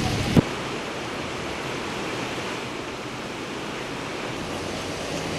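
Steady rushing noise of a storm, with wind and water running on without a break. A short click about half a second in, where the sound changes.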